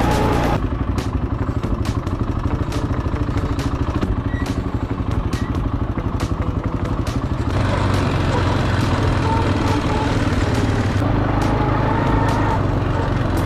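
Quad bike engine running under way, a rapid low pulsing with scattered clicks and knocks. The sound grows fuller and harsher a little over halfway through.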